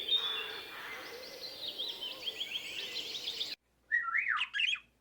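Birds chirping and trilling in quick, high-pitched phrases over a steady outdoor background. The background cuts off suddenly about three and a half seconds in, then one more short burst of rapid chirping follows.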